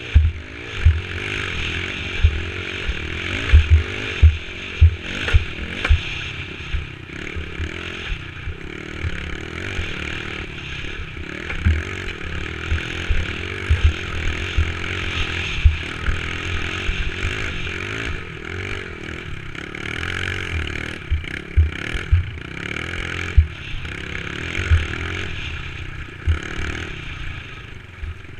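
Dirt bike engine running steadily while riding a trail, with clattering and many short low thumps on the microphone.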